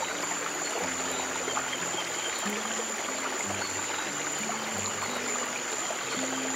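Flowing stream water running steadily under slow, soft, low piano notes, with a steady high tone above them.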